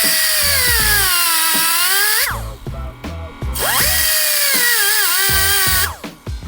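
High-speed power tool cutting out part of a 2JZ engine's cam-gear cover, in two runs of about two seconds each; its whine sags in pitch as it bites into the cover and rises again as it is eased off. Music with a steady beat plays underneath.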